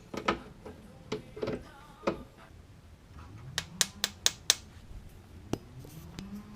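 Metal tools clicking and knocking against metal, with a quick run of about five sharp clicks near the middle, over a low hum that rises in pitch twice.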